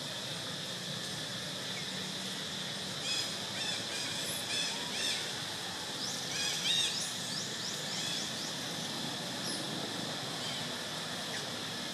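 A scatter of short, high chirping calls over steady outdoor background hiss, busiest in the middle few seconds.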